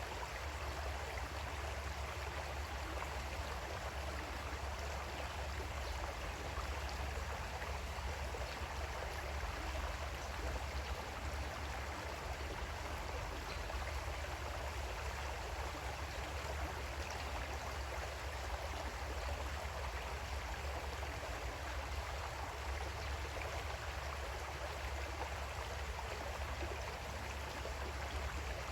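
Creek water flowing and gurgling steadily over stones, with no changes or breaks.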